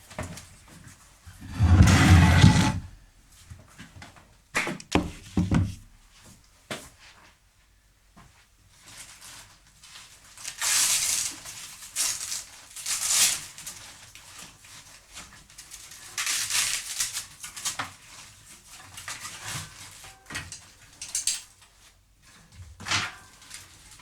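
Clunks, rattles and scraping of a bicycle being handled and unhooked from a ceiling rope hoist, with one loud deep thud about two seconds in and a knock near the end.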